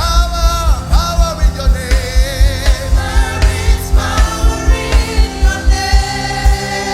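Live gospel worship music: voices singing over a band, with a steady, fast kick-drum beat.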